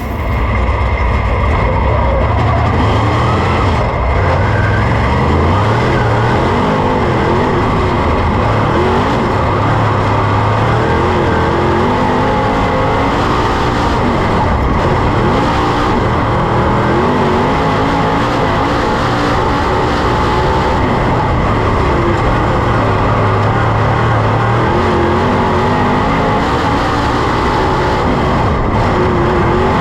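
Super late model's 422-cubic-inch Ford V8 running hard at racing speed, its pitch rising and falling again and again as it accelerates and lifts through the laps.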